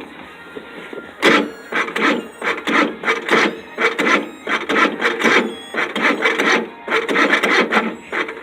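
Cold engine being cranked by its starter motor, turning over slowly in a steady rhythm of about three beats a second without catching. The slow turning is the sign of a battery too weak from the cold. The cranking starts about a second in and stops near the end.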